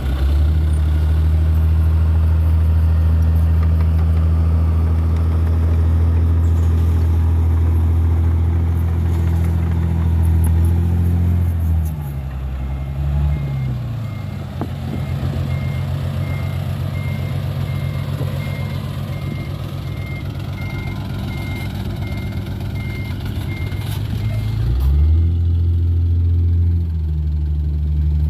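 Diesel engine of a Toyota Dyna 130HT dump truck running at a steady raised speed, dropping to a lower idle about twelve seconds in and picking up again near the end. While it idles, a reversing beeper gives a steady series of high beeps.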